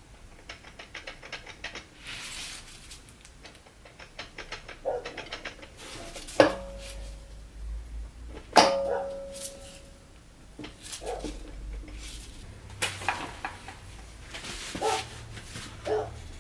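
Workshop handling sounds while a transmission is being rebuilt: scattered clicks and clinks, and two loud sharp knocks about two seconds apart, each ringing on with a steady tone like struck metal parts.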